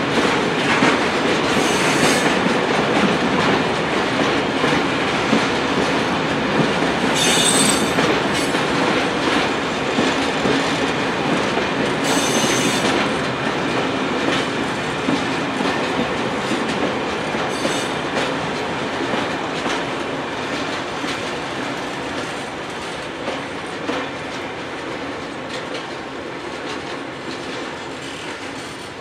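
Freight train of loaded log wagons rolling past: a steady rumble of wheels with clicking over the rail joints and three brief high wheel squeals in the first half, fading steadily as the last wagons go by.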